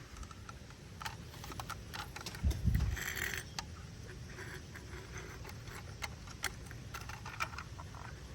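Light plastic clicks and knocks from a toy garbage truck being handled, with a louder low thump about two and a half seconds in.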